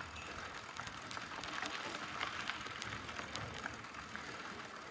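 Mountain bike rolling along a dirt trail: steady tyre and trail noise with scattered small clicks and rattles from the bike.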